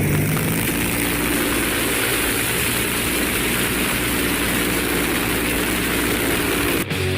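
Large piston aircraft engine running steadily at a constant speed, a dense, even drone that stops abruptly near the end.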